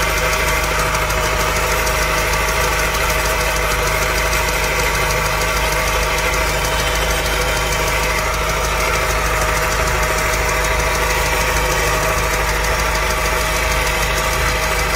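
Honda K20 engine of an EP3 Civic Type R idling steadily with a rapid, regular knock. The bottom end is knocking, and the owner takes it as needing a new engine.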